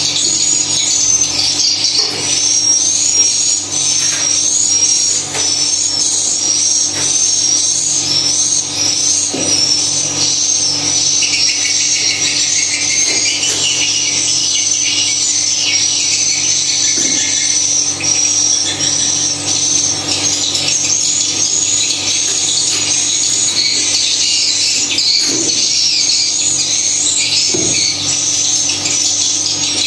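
Swiftlets chirping in a dense, rapid stream of short, high calls, over a steady low hum, with a few soft knocks scattered through.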